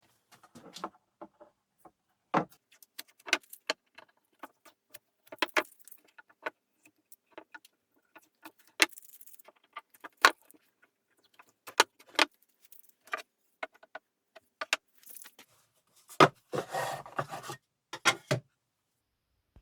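Irregular clinks and knocks of small metal pieces and tools being picked up and set down on a workbench, with a short scraping rattle near the end.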